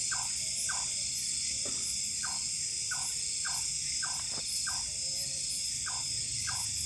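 Night chorus of insects in tropical forest: a steady, high, dense trilling. Through it run short calls repeating about twice a second.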